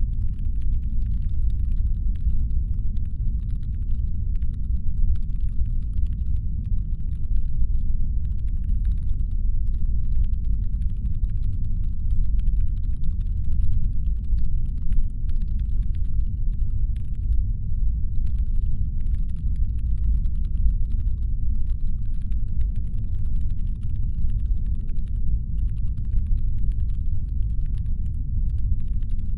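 Steady deep brown-noise rumble, designed as a spaceship's engine hum. A faint, dense crackle of small clicks runs over it.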